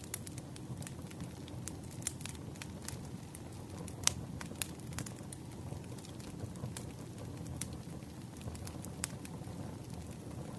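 Wood fire crackling: a steady low rumble with irregular sharp pops and crackles. The loudest pop comes about four seconds in.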